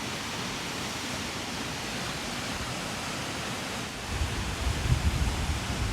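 Steady rush of Tolmer Falls' water falling into its gorge. From about four seconds in, wind buffets the microphone in low, uneven gusts.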